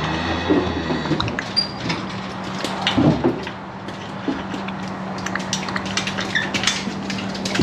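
Irregular metallic clanks and knocks from cattle loading, as gates and the livestock trailer's metalwork are struck, over a steady engine hum.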